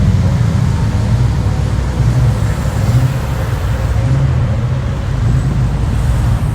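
A motor vehicle running, a steady low rumble with no sharp events.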